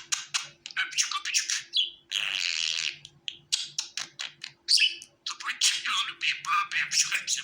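Budgerigar chirping and chattering in a rapid run of short chirps, with one longer, harsh call about two seconds in.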